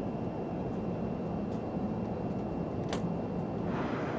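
Steady low rumbling drone of an airliner cabin in flight, with a single sharp click about three seconds in. Near the end the noise turns brighter and hissier.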